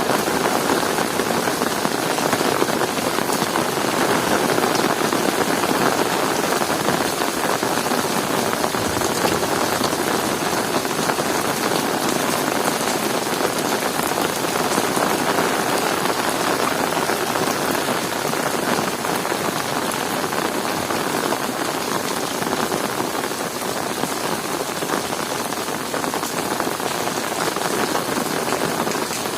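Heavy rain falling steadily, a dense, even patter of drops with no thunder.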